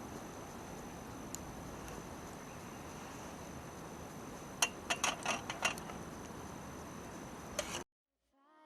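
Campfire crackling quietly over a steady hiss, with a brief run of sharp pops or clicks about halfway through. The sound cuts off suddenly near the end.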